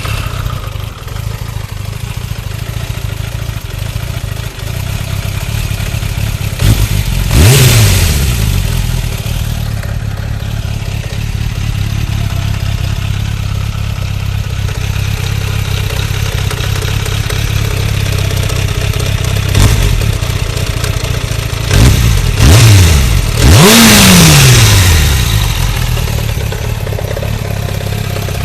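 Suzuki 600 Bandit's inline-four engine idling at a standstill, with a throttle blip about seven seconds in and two more close together near the end, the revs rising and falling back each time. The idle carries the odd noise at standstill that the owner is trying to pin down.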